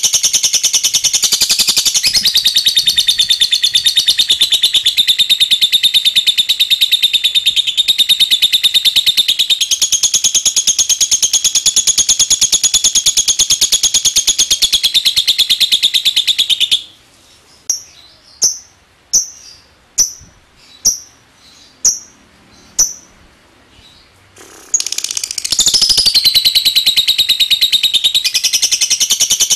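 Lovebird's long 'ngekek' chatter: a rapid, continuous shrill trill that breaks off about two-thirds through for a string of about eight short separate chirps, then starts up again.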